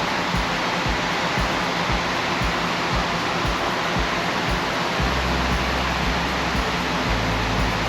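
A steady rushing noise, like air from a fan or blower, with irregular low thumps on the microphone throughout; a low hum joins in about five seconds in.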